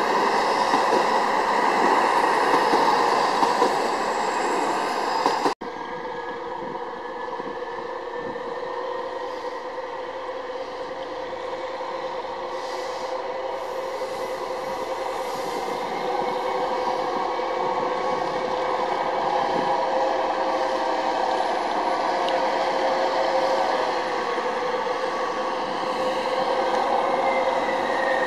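Trains moving through a large station. First, Mitteldeutsche Regiobahn diesel railcars run past with loud running noise. After a sudden cut about five seconds in, a DB class 362 shunting diesel locomotive moves an Intercity coach set, giving a steadier hum with several held tones.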